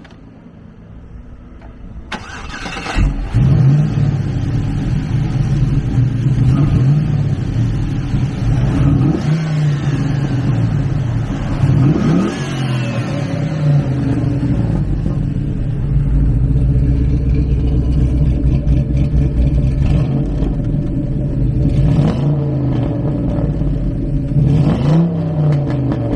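1967 Chevrolet Camaro engine cranking and catching about three seconds in, then idling steadily. The throttle is blipped a few times, the revs rising and falling back to idle.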